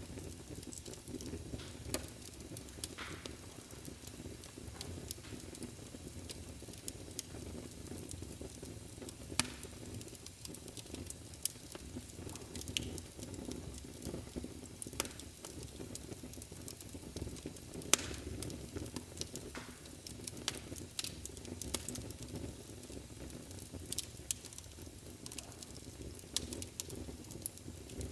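Wood fire burning in a fireplace: a steady low rush of flames with irregular sharp crackles and pops, the loudest pop about eighteen seconds in.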